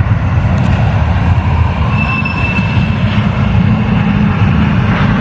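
A train running past with a steady, loud rumble, and a short high-pitched tone about two seconds in.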